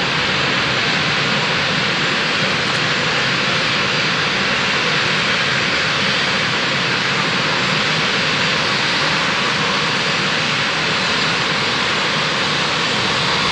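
Jet airliner engines running with a loud, steady, even rush that does not change.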